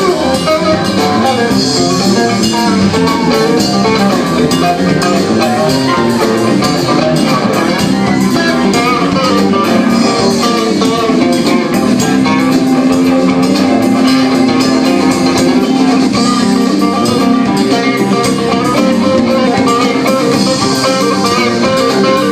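A live band playing an instrumental passage: guitar lines over a drum kit, steady and loud.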